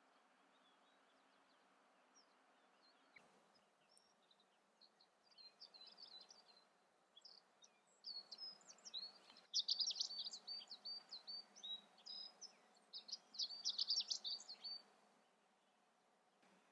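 A songbird singing a long, rapid run of high twittering notes, starting a few seconds in, loudest in two stretches in the second half and stopping shortly before the end, over a faint steady outdoor hiss.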